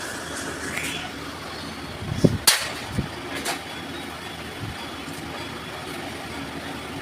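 Steady vehicle and workshop background noise, with a tone that rises near the start and a few sharp knocks and clicks about two to three and a half seconds in.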